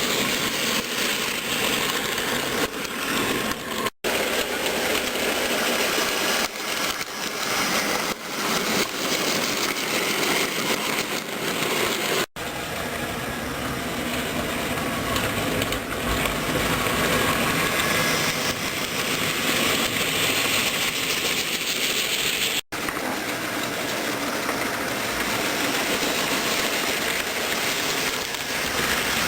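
HO-scale model train running on its track, a steady rolling rattle and hum of the model locomotive and wagons. The sound cuts out briefly three times.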